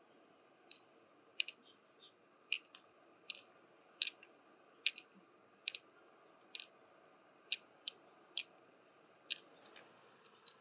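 A series of sharp, crisp clicks, about one every 0.8 seconds, over a faint steady high-pitched whine.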